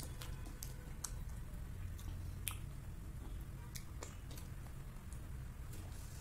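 Close-miked chewing of a soft bun filled with whipped cream and mango: scattered wet mouth clicks and lip smacks over a low steady hum.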